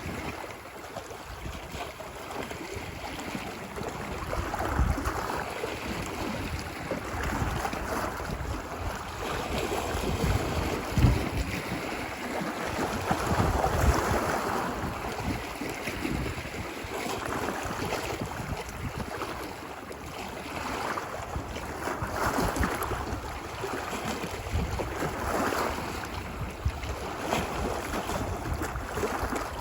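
Ocean surf washing ashore on a beach, the wash swelling and easing every few seconds, with wind rumbling on the microphone.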